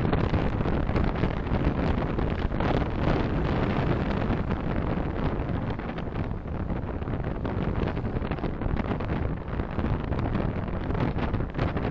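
Steady road and wind noise of a car driving, heard through a dashcam microphone inside the car.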